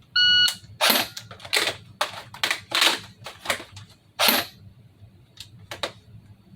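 A shot timer's start beep, then a rapid run of sharp plastic clacks and knocks from an unloaded, ungassed FN P90 airsoft replica being worked against the clock in a magazine-change drill, with two lighter clicks near the end.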